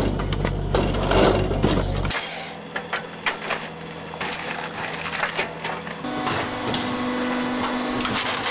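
Wood crackling and splintering as a giant press machine crushes it: a rapid run of sharp cracks and snaps over a steady machine hum. The hum drops away about two seconds in and a different hum comes in about six seconds in.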